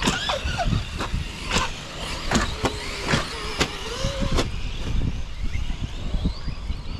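Electric RC monster trucks running on 4S and 3S LiPo power, their motors whining up and down in pitch as the throttle changes. Several sharp knocks come in the first half.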